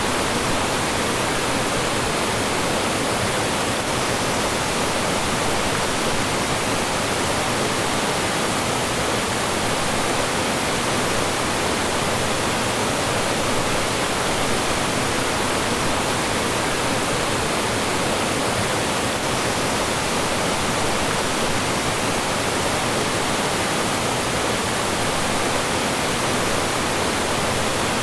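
Mountain stream flowing and falling over rocks: a steady, dense rush of water with no change.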